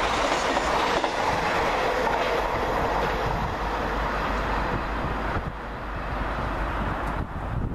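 Hitachi Class 802 express train passing through at speed on the near line: a loud, steady rush of wheel and air noise that drops away about five seconds in.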